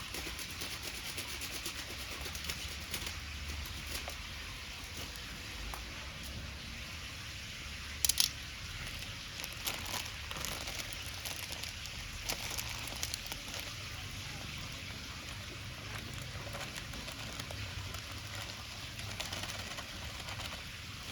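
Wood bonfire crackling, with many small pops over a steady hiss and a loud sharp double pop about eight seconds in.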